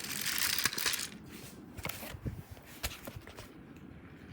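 Toy trains being handled: rustling in the first second, then scattered light clicks and a few dull knocks.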